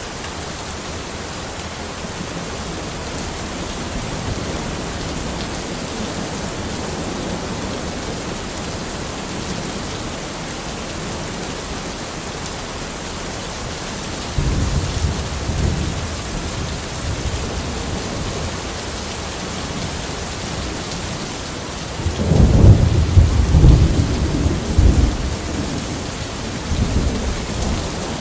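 Steady rain falling, with thunder rumbling: a short roll about halfway through, then a louder, longer roll near the end that trails off into a smaller one.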